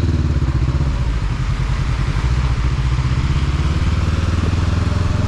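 Motorcycle engine running at a steady pitch while riding, with a steady hiss of noise over it.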